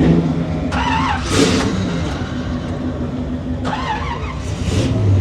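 A car engine running steadily at idle, its low hum shifting in pitch once or twice, with snatches of people talking in the background.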